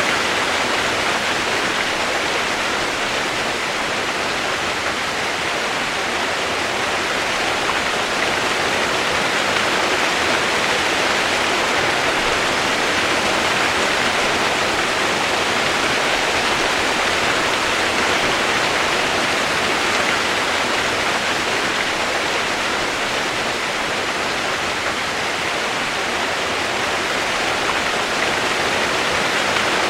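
Steady rain as an even, unbroken hiss, with no separate drops or thunder standing out.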